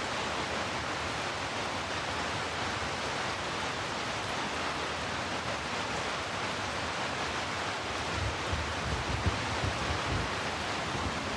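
Steady hiss of heavy rainfall. About eight seconds in, a low rumble starts up beneath it and swells toward the end.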